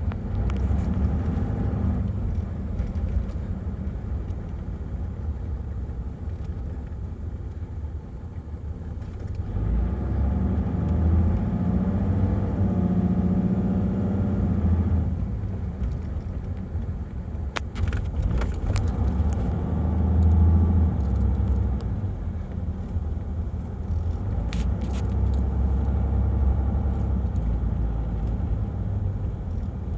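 Turbo diesel Land Cruiser engine running under way. It pulls harder twice, about a third of the way through and again near two-thirds, with a few light rattles in between.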